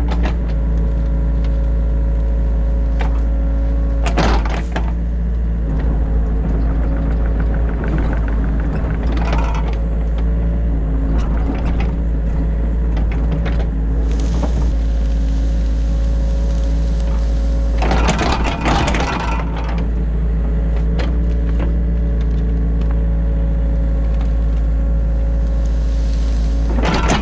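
The diesel engine of a New Holland E50.2 mini excavator running steadily, heard from inside the cab, as the machine digs. A few short scraping bursts break through, the longest about two-thirds of the way in, along with scattered knocks.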